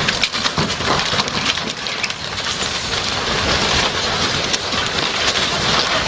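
Steady rushing road noise of a car driving on a wet road, with many small ticks and crackles throughout.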